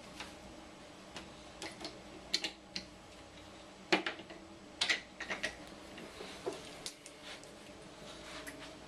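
Irregular light clicks and clacks of hard toy train pieces being handled and knocked together, with the loudest clatter about four and five seconds in.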